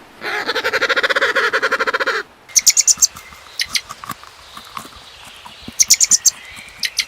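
A domestic fowl calls in a loud, rapidly pulsing run for about two seconds and then stops. Short bursts of high bird chirps follow, a handful of quick notes at a time, three times.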